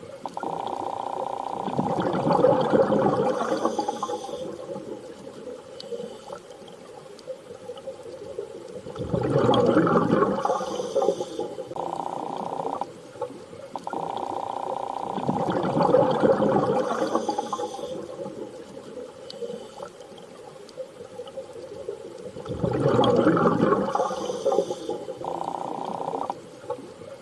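Underwater ambience for a sleep or relaxation soundscape. Washes of sound swell and fade about every seven seconds, and a steady tone holds between them. Whale-song-like calls sound through it.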